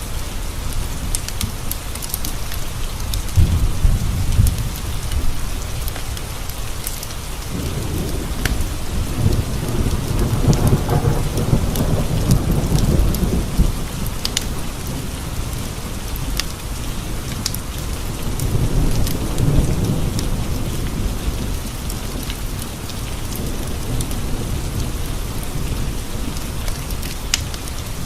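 Steady rain pattering on window panes, with low rolling thunder that swells and fades several times, the longest rumble starting about eight seconds in. Scattered sharp pops of a crackling wood fire sound over the rain.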